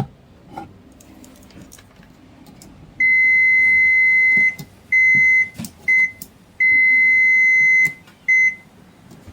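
Multimeter continuity beeper sounding five times with a steady high-pitched beep, starting about three seconds in; two beeps are long (over a second) and the others short, with faint probe taps in between. The beep is the signal of a dead short across the amplifier's output transistors.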